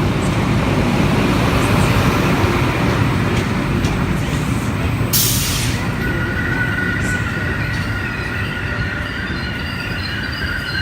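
A train running on the rails with a steady low rumble. About five seconds in there is a short sharp hiss, and from then on the wheels squeal against the rails in high, held tones.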